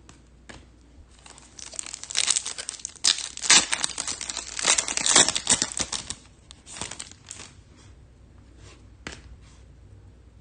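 Trading-card pack wrapper being torn open and crinkled: a dense crackling stretch of a few seconds, then a few lighter rustles and a click.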